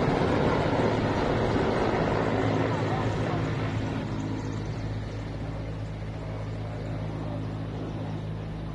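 Engine noise: a loud rushing noise fades away over the first few seconds, leaving a steady low engine hum.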